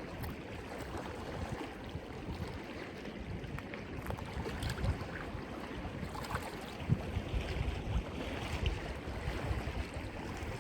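Wind buffeting the phone's microphone in uneven low gusts over a steady wash of surf on the rocks.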